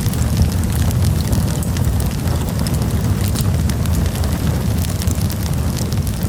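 Campfire burning with a steady low rumble and frequent sharp crackles and pops.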